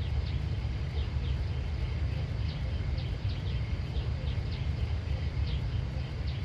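Outdoor rural ambience: a steady low rumble with short, high, downward chirps of small birds or insects repeating irregularly, about two a second.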